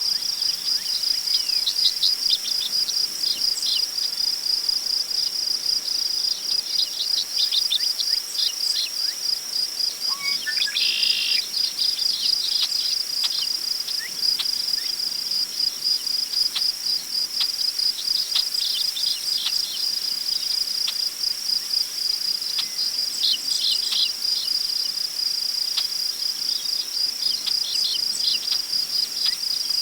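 Crickets chirping in a steady, rapid high-pitched trill, with scattered short bird chirps and a brief bird call about eleven seconds in.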